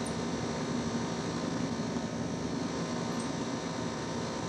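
Steady room hum and hiss, with no sudden events.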